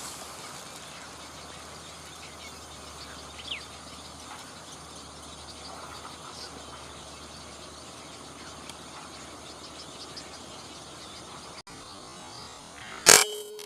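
Steady chorus of insects and frogs, with one short chirp a few seconds in. Near the end a single loud, sharp crack: a PCP air rifle firing, followed by a short steady hum.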